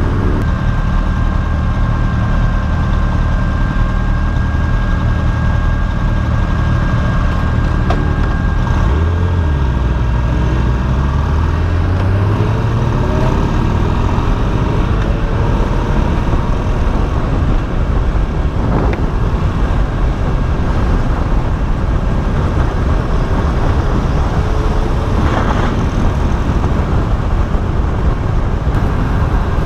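Motorcycle engine running at expressway speed, heard over steady wind rush on the microphone. Its pitch drops about nine seconds in and climbs back up over the next few seconds as the throttle is eased and reopened.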